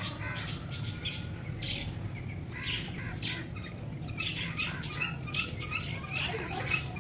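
Pet birds chirping, many short high chirps in quick irregular succession, over a low steady hum.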